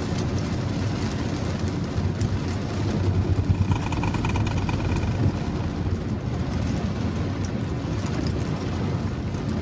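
Car driving on rain-soaked roads: a steady, low rumble of tyres and road noise mixed with the hiss of rain, with a faint brief tone about four seconds in.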